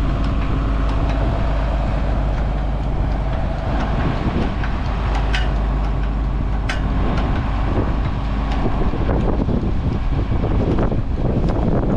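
Farm tractor engine running steadily, with a few sharp metallic clicks around the middle.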